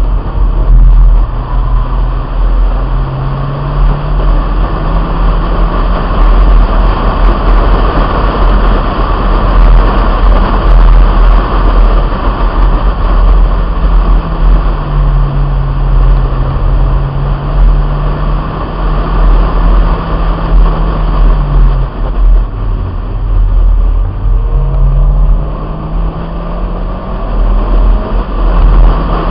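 1997 Honda Integra's four-cylinder engine driven hard on track, its note rising and falling with throttle and gear changes and dipping low a little past the two-thirds mark. Heavy wind rumble from the roof-mounted camera runs under it.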